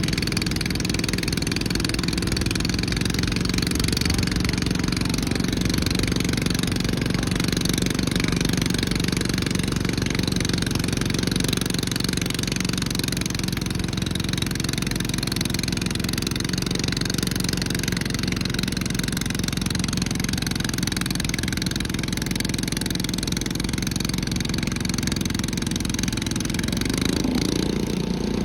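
Garden pulling tractor engine running hard and steadily under load through a pull, its pitch rising a little near the end.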